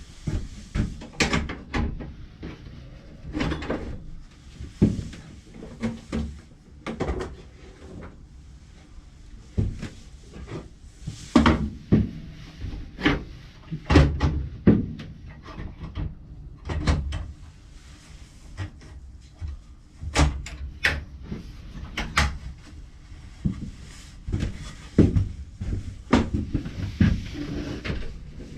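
Irregular knocks and clatter of wood pieces and tools being handled and set down on a workbench, a few sharp strikes every couple of seconds.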